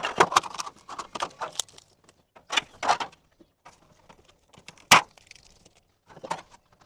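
Tape being peeled off a sheet of aluminum flashing and the thin sheet being handled, with crackly rustling and clicks, scattered bursts, and one sharp metallic clack about five seconds in.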